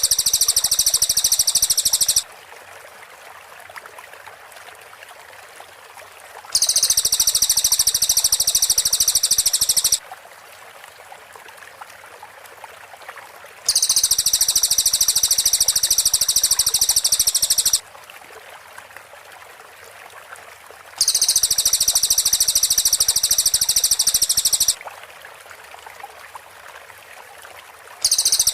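Cililin songbird's rapid, high-pitched trill of tightly packed notes, the fast "tembakan rapat" burst. Each trill lasts about four seconds and repeats the same way roughly every seven seconds, with a faint hiss in the gaps.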